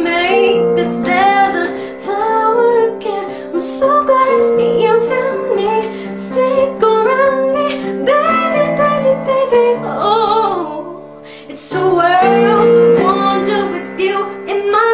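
A solo pop vocal singing with instrumental backing. The voice slides through runs and wavers on a held note about ten seconds in, over steady held chords.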